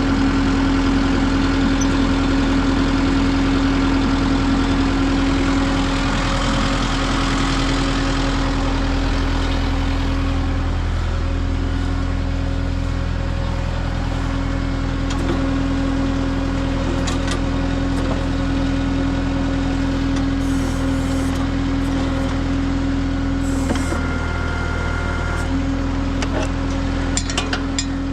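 Kubota M6060 diesel tractor engine running steadily at a constant speed, driving the backhoe's hydraulics through the tractor's remote valve, with a few sharp clicks near the end.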